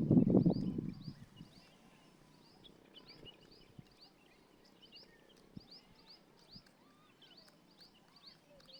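Small birds chirping faintly and continually, many short high chirps a second. A loud low rumble with knocks fills the first second and then stops.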